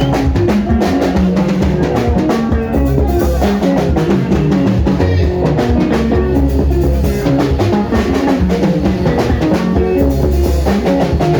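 Sungura band playing an instrumental passage: busy drum kit with bass drum and rimshots, driving bass guitar lines and interlocking electric guitars, with no singing.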